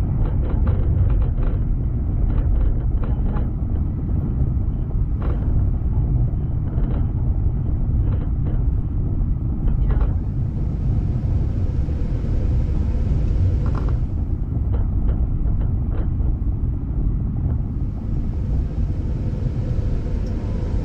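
Moving passenger train carriage: a steady low rumble of wheels running on the rails, with irregular clusters of sharp clicks and clatters from the wheels and the carriage.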